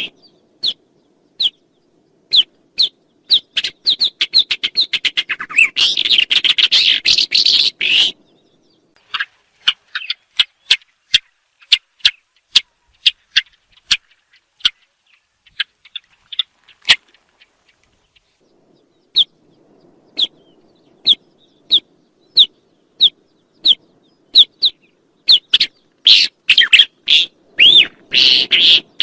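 Songbird calling, the bird named in the title as al-ablaq al-ashhab: a string of short, sharp chirps, with dense fast chattering runs about four seconds in and again near the end.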